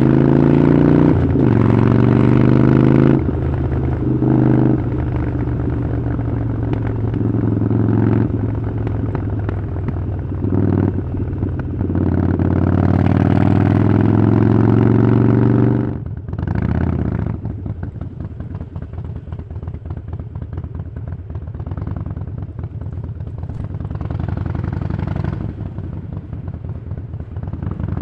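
Harley-Davidson Iron 883's air-cooled V-twin running through a Vance & Hines aftermarket exhaust under way. It pulls with rising pitch, broken by several short dips that fit gear changes. A little over halfway through the throttle closes and the engine drops to a lower, uneven, lumpy beat.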